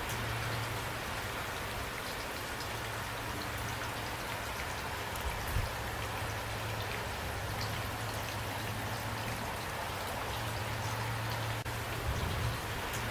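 Steady rain falling, an even dense hiss flecked with scattered individual drop ticks, over a low steady hum.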